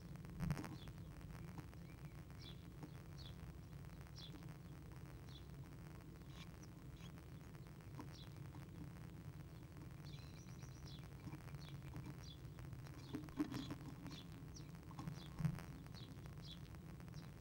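A small bird's short, high chirps, each sliding down in pitch, repeated about once a second over a steady low hum, heard from inside a wooden nest box. A few louder knocks stand out, about half a second in and twice late on.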